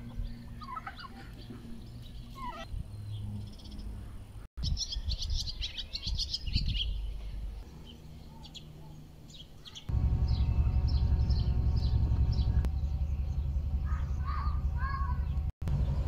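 Birds chirping and twittering in short calls, with a dense run of high chirps for about two seconds a quarter of the way in. About two-thirds of the way through, a steady low rumble starts and runs under the calls.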